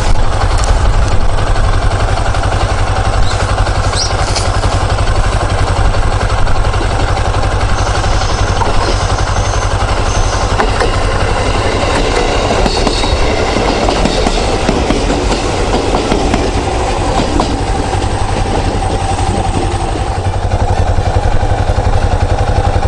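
Electric commuter train passing close by, its wheels clicking over the rail joints.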